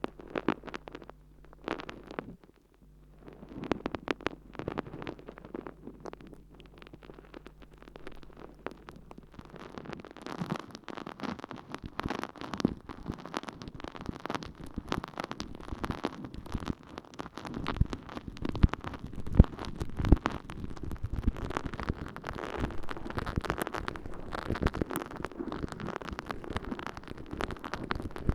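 Water-soaked sponge squishing and crackling as it is worked in an ear. At first it comes in scattered clicks over a faint low hum, then from about ten seconds in it becomes a dense, continuous wet crackle.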